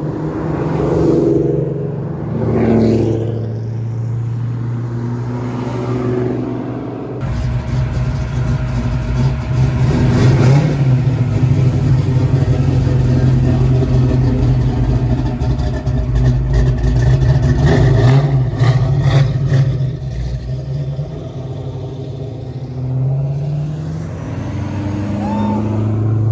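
Car engines revving repeatedly over a steady idle. The revving is louder and harder from about seven seconds in until about twenty seconds in, then settles back.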